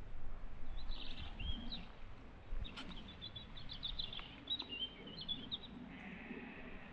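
Small songbirds chirping and trilling, a quick series of short high notes, followed near the end by a brief soft hiss.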